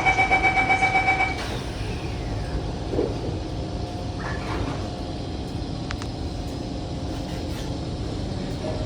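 Door-closing warning beeps of a Kawasaki C151 metro train: a rapid pulsing beep on two steady notes for about a second and a half, then the doors shut and a steady low cabin rumble follows as the train pulls out.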